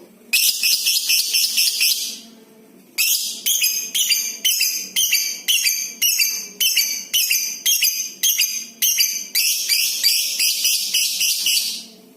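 Lovebird giving its long, shrill chattering call ('ngekek'): a short bout, a pause of about a second, then a long rapid run of repeated call clusters, roughly two a second, lasting nearly nine seconds.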